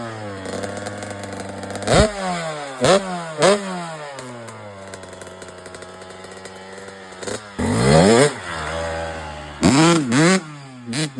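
Dirt bike engine revved in sharp throttle blips, the pitch snapping up and falling back each time, sinking toward idle between them. There is a bigger rev about eight seconds in and a quick cluster of blips near the end.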